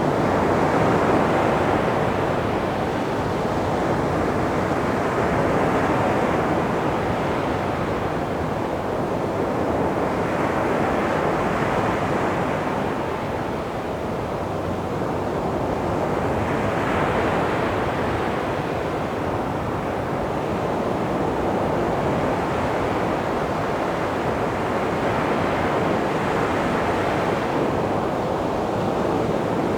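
Calm sea waves breaking and washing up on a beach: a continuous rush of surf that swells about every five seconds.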